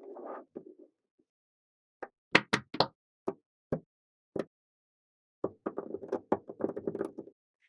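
Small magnetic balls clicking together: a handful of separate sharp snaps, then a quick clattering run of clicks in the second half.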